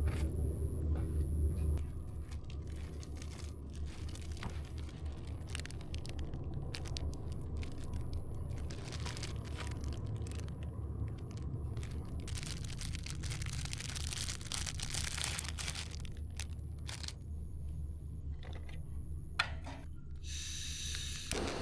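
Newly lit campfire kindling crackling and snapping in scattered sharp pops over a steady low rumble. The crackle thickens into a denser hiss for a few seconds around the middle.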